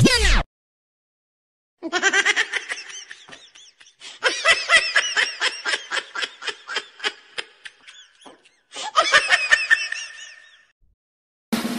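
High-pitched laughter sound effect in three bursts of pulsing laughs, about four laughs a second in the longest, middle burst.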